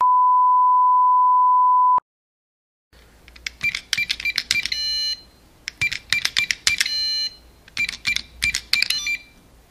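A steady, pure electronic beep tone held for about two seconds. After a second of silence come three bursts of rapid electronic clicks and short high-pitched beeps, like an intro sound effect.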